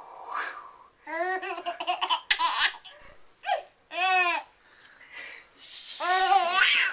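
A baby laughing and squealing in several short, high-pitched bursts.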